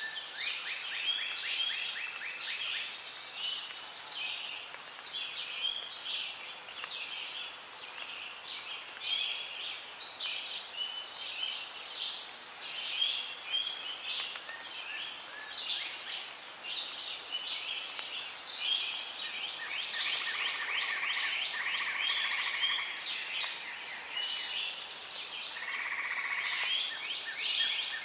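Rainforest ambience: a dense, continuous chorus of many overlapping animal chirps and trills, with a few longer held calls in the last third.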